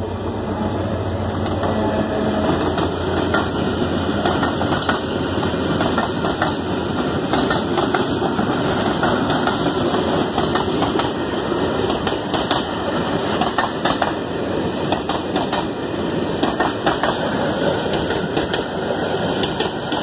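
Freight train wagons rolling past close by: a steady rumble of steel wheels on the rails with irregular clacks as the wheels cross rail joints, the clacks coming more often in the second half.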